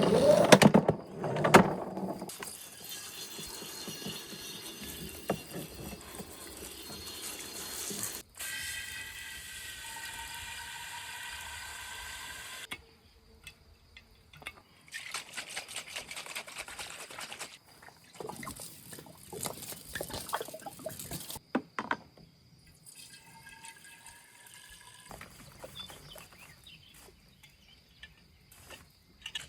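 Elderflower champagne liquid being poured and strained, splashing and dripping, in several short takes that start and stop abruptly. The first couple of seconds are louder, with heavier handling sounds.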